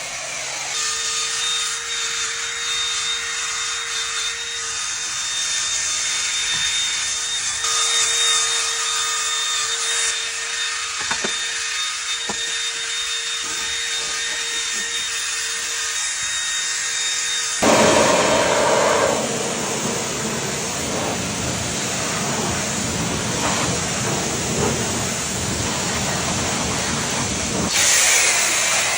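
A power tool or machine runs steadily with a hiss and a steady whine. About 17 seconds in, it changes abruptly to a rougher, fuller rushing noise, like rubbing or spraying on a surface.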